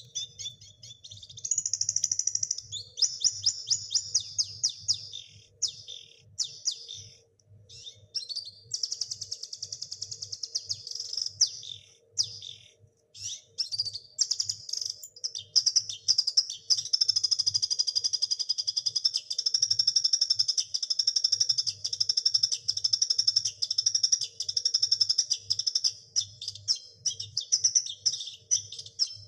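A songbird singing a long, continuous song of fast, high-pitched trills and chirps, broken only by brief pauses, as in a masteran recording played to teach cage birds their song.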